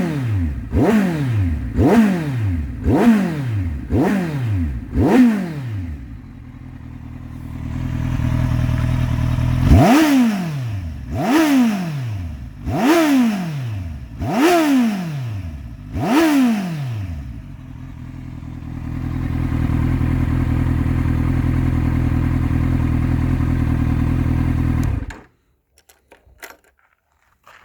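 2011 Kawasaki Z1000's inline-four engine being blipped: a run of quick revs about a second apart, a short idle, then five more revs about a second and a half apart. It then idles steadily and is switched off near the end.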